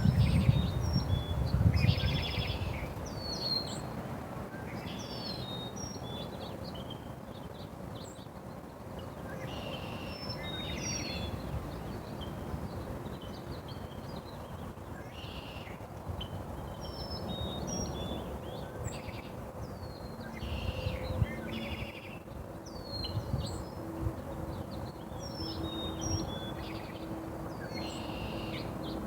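Several small birds chirping, with short high calls coming every second or two. A loud low rumble fades out over the first couple of seconds, and a faint steady hum enters about two-thirds of the way in.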